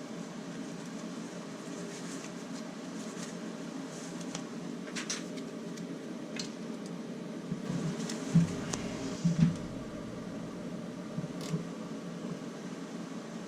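Scattered metallic clicks and a few low knocks from hand tools and engine parts being handled during disassembly, over a steady background hum. The loudest knocks come about eight to nine and a half seconds in.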